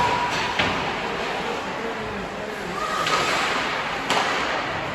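Hockey sticks and puck knocking on the ice, with a few sharp clacks over the hollow murmur of an arena.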